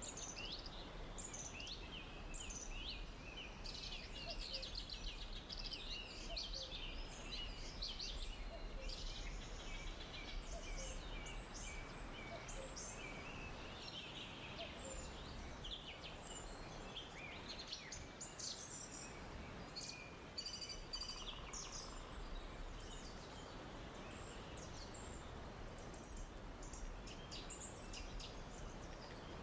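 Forest ambience: many small birds chirping and trilling over a steady soft background hiss, the birdsong busiest in the first half.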